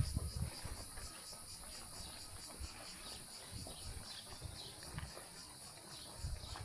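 Insects trilling in a steady high chorus with a regular pulse, with low thuds near the start and again near the end.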